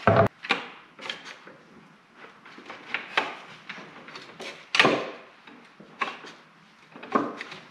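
Irregular knocks and clunks of wood and metal parts and tools being handled and shifted on a workbench. The sharpest knock comes at the very start, and another loud one comes nearly five seconds in.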